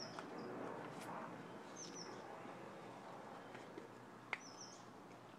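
A bird repeats a short, high chirp about every two and a half seconds, faint over a low background hiss. Two or three small clicks come in between.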